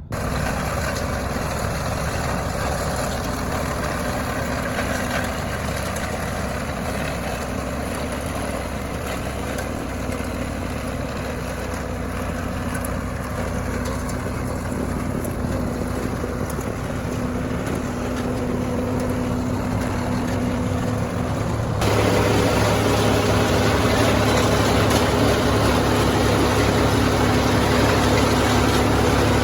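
John Deere 4430 tractor's diesel engine running steadily, pulling the sod vacuum; it jumps suddenly louder about three-quarters of the way through.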